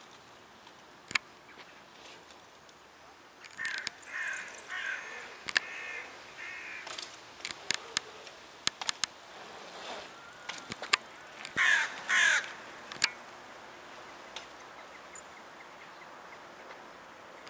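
A bird giving a run of short, harsh, repeated calls a few seconds in, then two louder calls about twelve seconds in, with sharp clicks and knocks scattered throughout.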